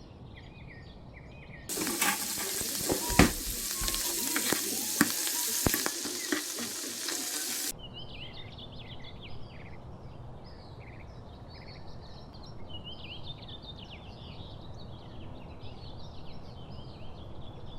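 Food sizzling in a hot pan, a loud hiss with a few sharp pops, from about two seconds in until it cuts off suddenly near the eight-second mark. Before and after it, birds sing in quick high chirps.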